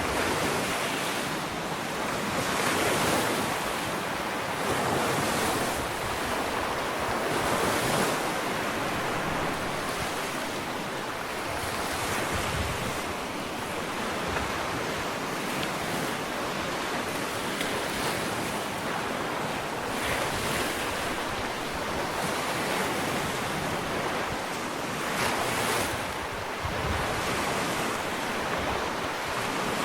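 Ocean waves washing onto a sandy beach, a steady surf with swells that rise and fall every few seconds.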